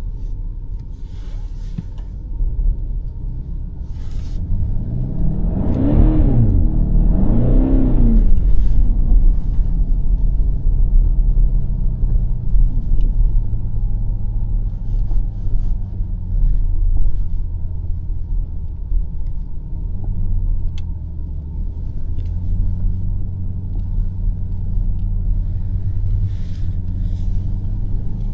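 BMW X5 M50i's twin-turbo V8 engine running under way with a steady low rumble, revving up and dropping back twice in quick succession about a quarter of the way in.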